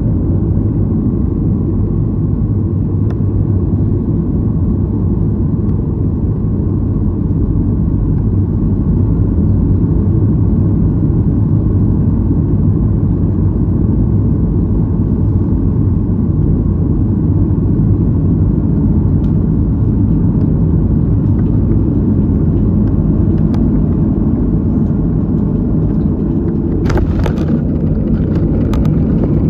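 Steady low rumble of an airliner's engines and rushing air, heard from inside the passenger cabin. A brief burst of clicks and rattling comes near the end.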